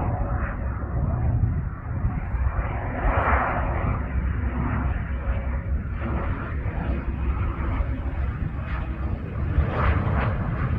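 Twin Williams FJ44 turbofan engines of a Cessna CitationJet CJ3 business jet during landing: a steady jet rumble and rushing noise.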